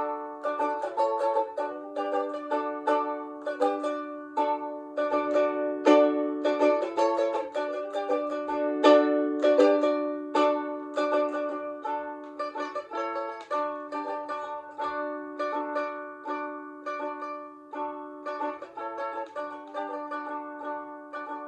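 Ukulele played solo as an instrumental passage, with quick plucked notes and strummed chords several times a second and no low bass notes.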